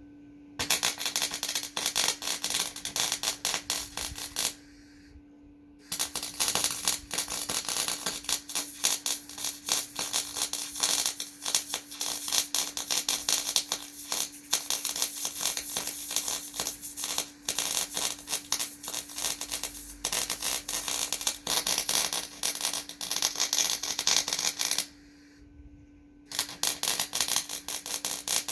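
Electric arc welding: a dense, steady crackle of the arc in three runs, stopping briefly twice as the welder pauses between beads. A steady low hum runs underneath throughout.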